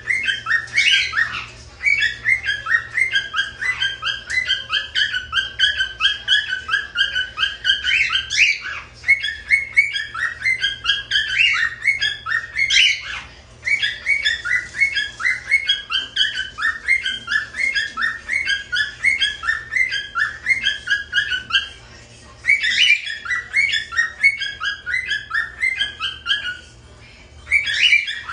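Pet cockatiels chirping rapidly, a dense run of short repeated chirps, several a second, broken by a few short pauses.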